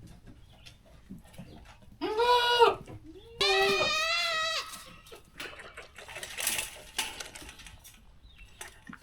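A goat bleating twice: a short call about two seconds in, then a longer, quavering bleat. Faint clicks and rustling follow.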